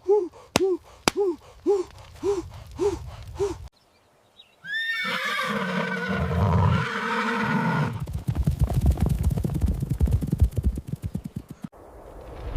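Rhythmic panting gasps, about two a second, with two sharp clicks among them, stopping a little after three seconds. After a brief silence a horse's whinny rings out, followed by a rapid drumming of galloping hooves that dies away near the end.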